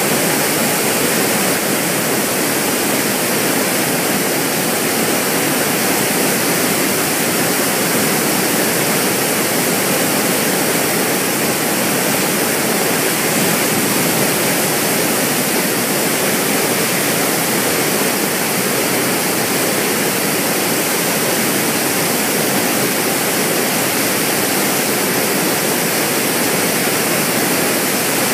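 Water released from Takizawa Dam in a test discharge, pouring out in a loud, steady rush.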